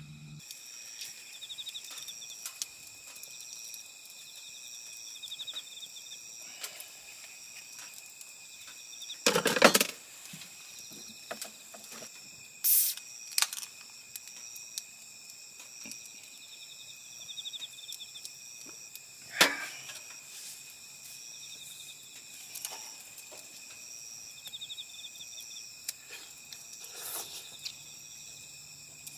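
Chorus of autumn insects chirping: several steady high trills with shorter pulsed chirps repeating over them. A few loud knocks or clatters break in, the loudest about ten seconds in, with others near thirteen and nineteen seconds.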